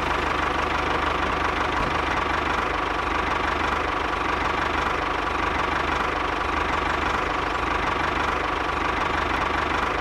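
Tractor diesel engine running steadily at low revs, with a fast, even pulse.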